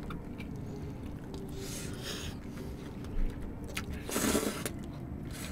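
People eating cheese-filled toast: quiet chewing and mouth sounds over a steady low hum, with a soft thump just after three seconds and a brief, louder noisy burst about four seconds in.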